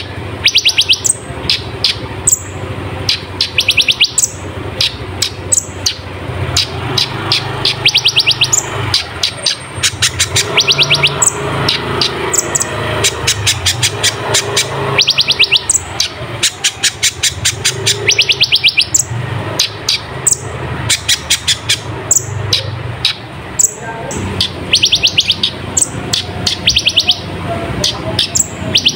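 Kolibri ninja sunbird singing without pause: high, sharp notes sweeping downward, mixed with fast rattling trills, phrase after phrase. A low steady hum runs underneath.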